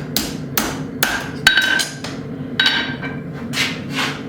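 Hand hammer striking hot steel on an anvil, about two blows a second, some blows leaving a short metallic ring. The smith is opening up and squaring the split ends of 1/2-inch square stock into the arms of a cross. A steady low hum runs underneath.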